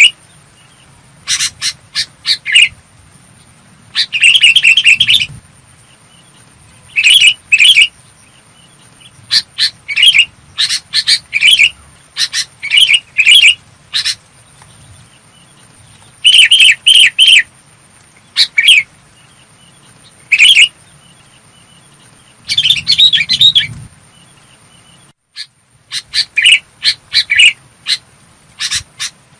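Sooty-headed bulbul song: short, clear, bubbling phrases repeated every second or two, with a brief pause shortly before the end. A faint steady high-pitched tone runs beneath.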